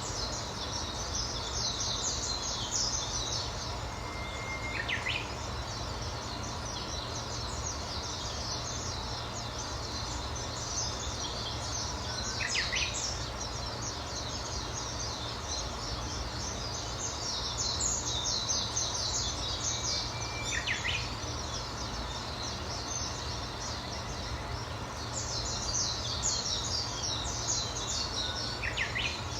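Wild birds singing: one bird repeats a short phrase, a held whistle ending in a quick falling flourish, four times about eight seconds apart. Between them come bursts of fast, high twittering a few seconds long, over steady low background noise.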